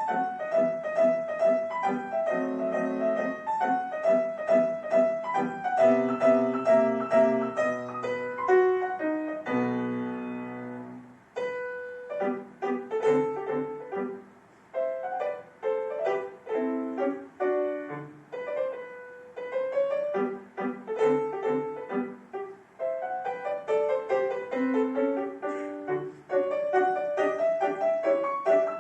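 Solo piano playing a classical piece. About ten seconds in, a chord is held and fades, then the playing goes on after brief breaks.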